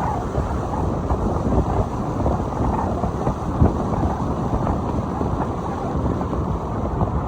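Dense low rumble of wind buffeting an action camera's microphone, with road noise from a moving car and small irregular knocks throughout.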